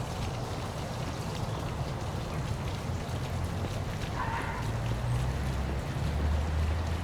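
Waterfall rushing and splashing steadily, with a low rumble underneath that grows stronger about five seconds in.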